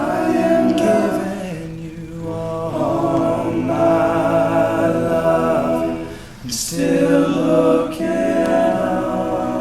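All-male a cappella vocal group singing close harmony in held chords, with no instruments. The chords break briefly about two seconds in and again past six seconds, with a sharp "s" from the voices just after the second break.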